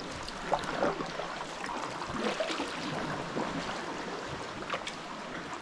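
Sea water splashing and lapping around a sea kayak, in irregular splashes over a steady wash.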